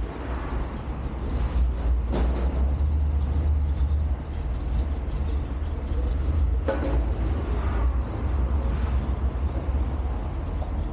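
Steady low rumble of a running vehicle, with brief clatters about two seconds in and again near seven seconds.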